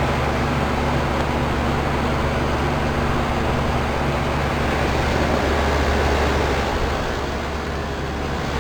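Outdoor unit of a 2000 Lennox heat pump running in heat mode with its coil iced over: a steady compressor hum under the whoosh of the condenser fan. Some of the hum tones thin out about halfway through.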